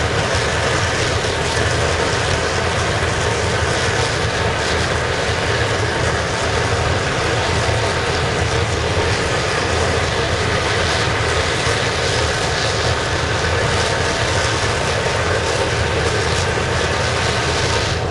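Waste-oil burner firing a scrapping furnace: a steady, loud roar of flame and air that keeps an even level throughout.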